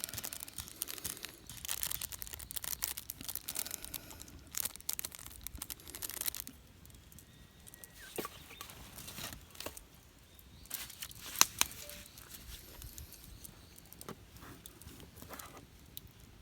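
Crinkly rustling and crackling with many small clicks, dense for the first six seconds or so and then sparser, with one sharp click about eleven seconds in.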